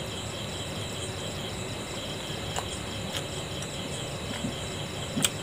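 Chewing a mouthful of steamed momo dumpling, with a few sharp mouth clicks and a louder smack near the end, over a steady, pulsing chirp of insects.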